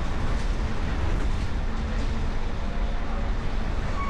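Steady low rumble of vehicle engines and traffic noise, even throughout with no distinct events.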